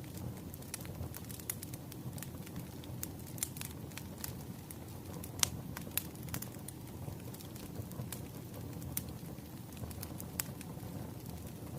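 Burning firewood crackling: irregular sharp pops and snaps over a low steady rumble of the fire, the loudest pop about five and a half seconds in.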